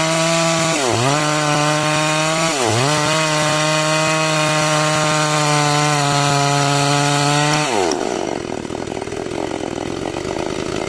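Two-stroke chainsaw ripping along a log to cut beams, running at high revs. The engine speed dips briefly and recovers twice in the first three seconds, then falls to a lower, rougher idle about eight seconds in as the throttle is let off.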